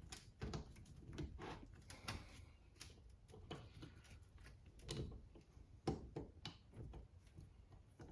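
Faint, scattered clicks and light knocks of metal tools and parts being handled, with one sharper knock about six seconds in.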